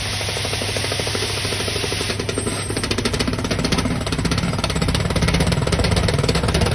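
Borewell drilling rig at work: a loud steady engine drone, with rapid, even hammering joining in about two seconds in.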